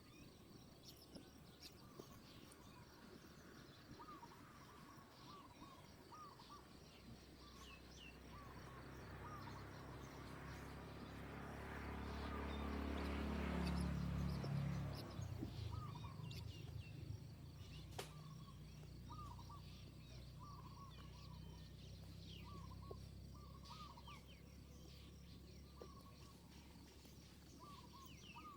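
A bird calling over and over in short chirps, against outdoor ambience. About a third of the way in, a low rumble swells, peaks near the middle and fades away.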